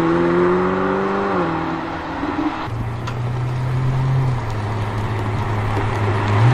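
Sports car engine at speed, its pitch falling twice as the revs drop. Less than halfway through it changes abruptly to a steadier, lower engine note.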